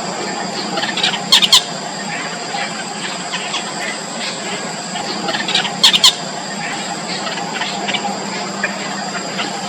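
Yellow bittern nestlings in the nest, squealing as they beg for food. Their calls come as scattered short chirps, with two loud brief bursts about a second and a half in and about six seconds in, over a steady high-pitched hum.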